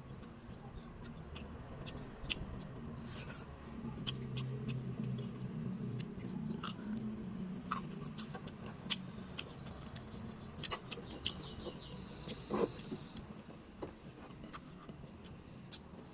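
Close-miked eating sounds: scattered wet clicks and smacks of chewing and hand-eating, with a brief high squeak a little after the middle.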